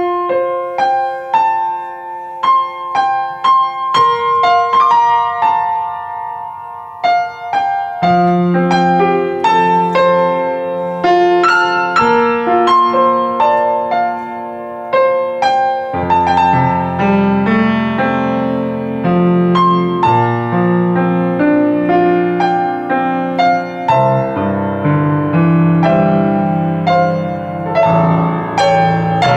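Piano playing a lively piece. The music starts suddenly with a treble melody alone, bass notes join about eight seconds in, and the playing grows fuller later on.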